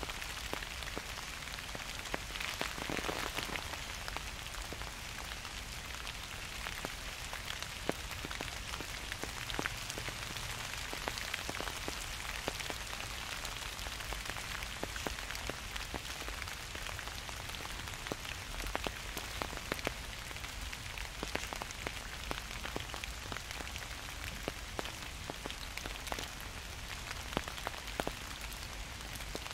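Gentle rain falling steadily: an even hiss of rain on surfaces, with many sharp single drops ticking close to the microphone.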